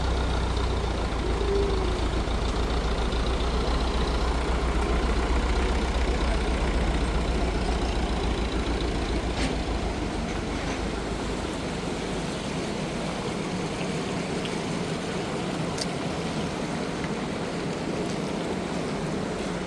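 An engine running with a low, steady rumble that fades away a little past halfway, leaving a steady rushing noise.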